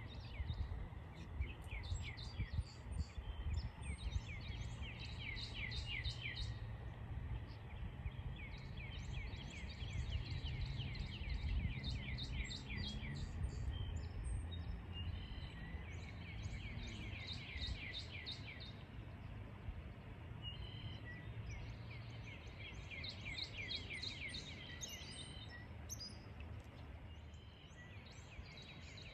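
A bird singing in repeated bouts of quick chirping trills, each a couple of seconds long with short pauses between, over a steady low rumble.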